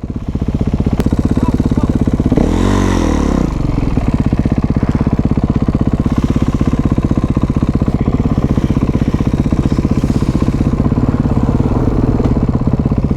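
Dirt bike engine idling with a steady fast beat, blipped once in a quick rev that rises and falls about two and a half seconds in before settling back to idle.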